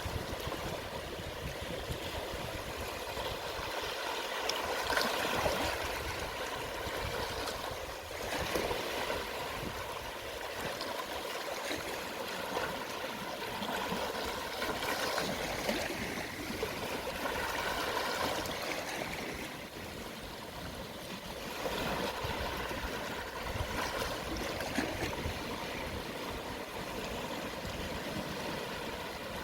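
Gentle sea waves washing and lapping on the shore at low tide: a steady hiss of water with soft swells every few seconds.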